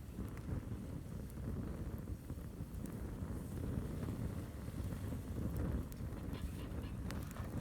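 Wind buffeting the microphone, a low irregular rumble, with faint scattered crackles from a burning campfire.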